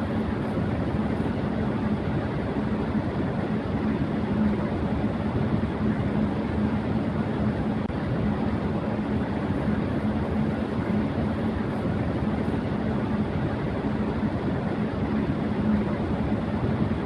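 Electric fan running at high speed: a steady rush of air with a steady low hum underneath.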